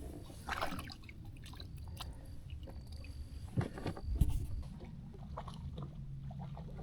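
Scattered light clicks and knocks on a kayak during handling of gear or fish, with one heavier thump a little past halfway, over a low steady rumble.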